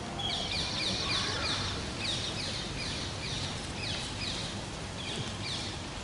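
Songbird singing in repeated short phrases of quick, high chirps, over a low, steady outdoor background noise.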